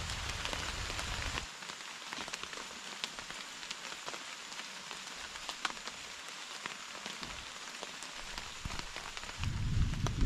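Steady rain falling, an even hiss with many separate drops ticking. A low rumble at the start cuts out after about a second and a half and returns near the end.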